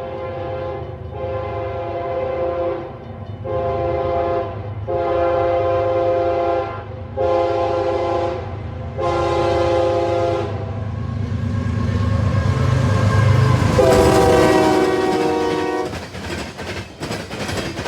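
An Amtrak ALC-42 Charger passenger locomotive sounding its horn in a string of blasts as it approaches, about seven in all, with the last long blast a few seconds after the others. Its diesel engine rumble grows louder until the last blast, and near the end the wheels click over the rail joints as it passes.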